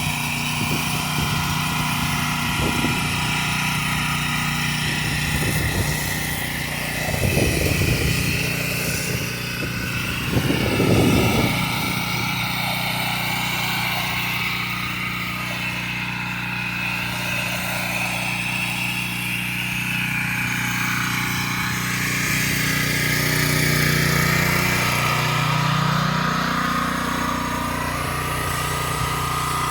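Stihl pressure washer's petrol engine running steadily, with the hiss of high-pressure water spraying. Two brief louder surges come about seven and eleven seconds in.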